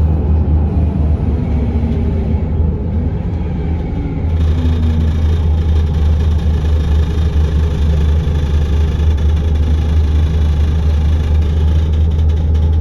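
Scania L94UB bus's diesel engine running, heard from on board, with a steady low drone. About four seconds in it grows louder and fuller as the bus pulls harder.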